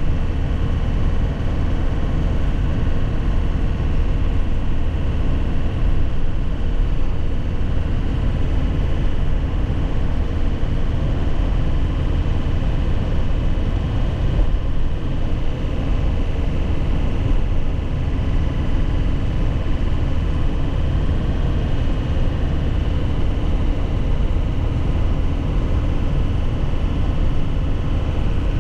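2001 Nissan Cabstar 106Le light truck's engine running at a steady pace while driving, a deep even rumble with road noise, with no gear change or rev swing.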